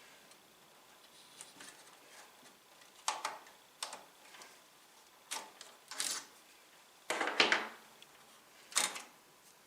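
Sharp plastic clicks and knocks of hands working inside a desktop PC case as the RAM sticks are unlatched and pulled from their slots: about six separate clicks, the loudest a little past the middle.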